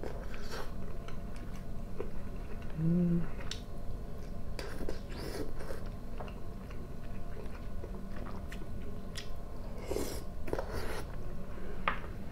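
A man chewing mouthfuls of canned kilka in tomato sauce close to the microphone, with scattered short clicks and crackles.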